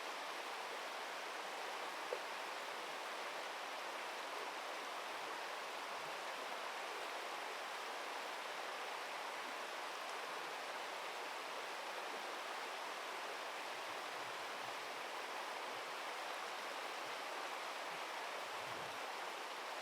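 Steady rushing of flowing river water, with one small click about two seconds in.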